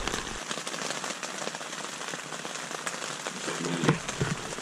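Rain pattering on a tent's fabric roof, heard from inside the tent: a steady hiss of drops dotted with fine ticks. A short vocal sound comes near the end.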